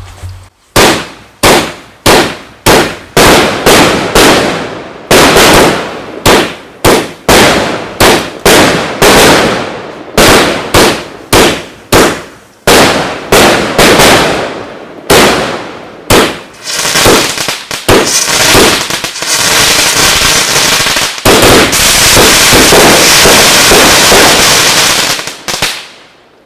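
A fireworks set going off: a rapid series of loud bangs, about two a second, for some fifteen seconds. These then run together into a dense, continuous crackling barrage that stops abruptly just before the end.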